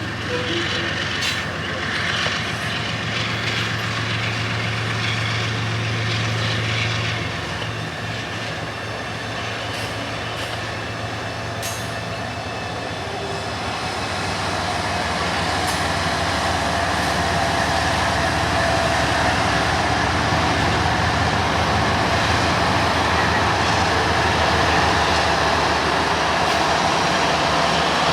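Union Pacific freight train passing. A steady low diesel locomotive hum for the first several seconds, then the rolling noise of the train grows louder about halfway through and holds steady.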